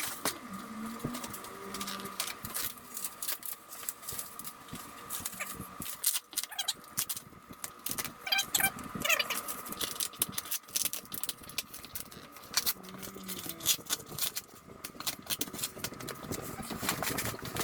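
Steel shelf parts clinking and rattling as they are unpacked, with many small metal knocks and clatters.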